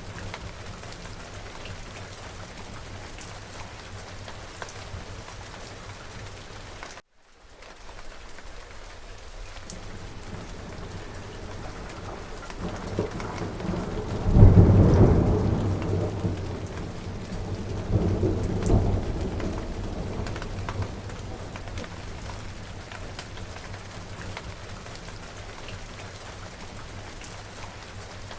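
Steady rain falling, with a thunderclap about halfway through that builds, peaks sharply and rumbles on in a second swell before fading. About a quarter of the way in, the rain cuts out for a moment and comes back.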